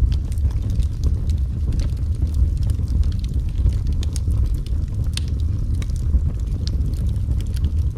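Fire crackling in a fireplace: a steady low rumble with scattered small snaps and pops, a sharper pop about five seconds in.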